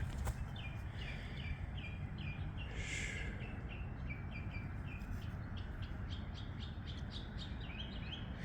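A songbird calling over and over with short, falling chirps, about two to three a second. About three seconds in there is a brief scratchy rustle.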